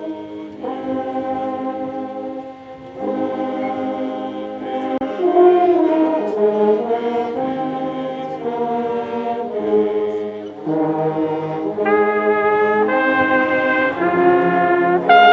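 A brass band playing a slow melody in held notes that change about once a second, growing louder near the end.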